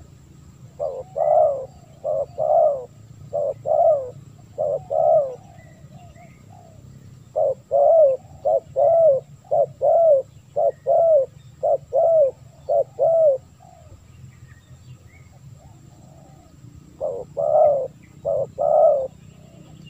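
Spotted dove (tekukur) cooing in three bouts of repeated coos with pauses between. The first bout comes about a second in, the longest runs through the middle for about six seconds, and a short one comes near the end.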